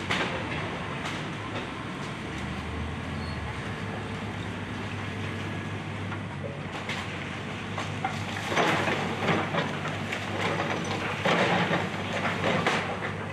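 Excavator's diesel engine running steadily, joined from about eight seconds in by repeated loud bursts of crunching and crashing as the house is torn down.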